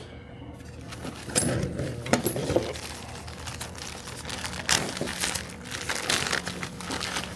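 Packaging crinkling and rustling in irregular bursts, with a few sharp clicks, as a packaged part is handled and unwrapped.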